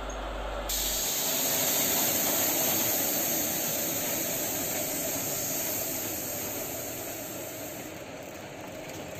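A train, an electric locomotive hauling a luggage van, a coach and milk tank wagons, rolling slowly past as it pulls out: a steady rushing noise with no clear rhythm that swells about a second in and fades near the end.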